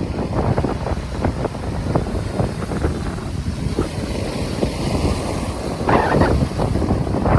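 Wind buffeting the microphone: a loud, gusty rumble that flickers constantly, with a louder burst about six seconds in.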